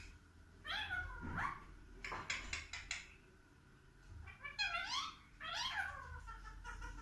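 Parrot calling: two pairs of pitched calls that sweep up and then down, with a quick run of short clicks between the pairs.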